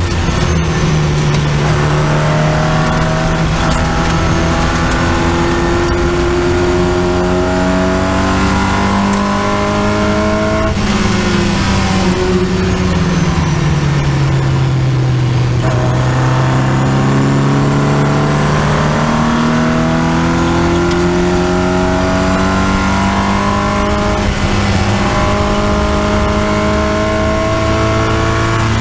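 Triumph Spitfire race car's four-cylinder engine running hard under the driver, with a rush of noise over the open cockpit. The engine pitch climbs slowly, falls away for about four seconds past the middle as the car slows for a corner, then climbs steadily again.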